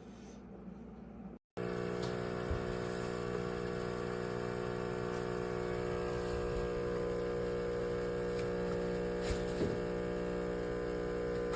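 Neretva 20-bar espresso machine's pump running with a steady hum. It starts abruptly about a second and a half in, after a brief cut to silence.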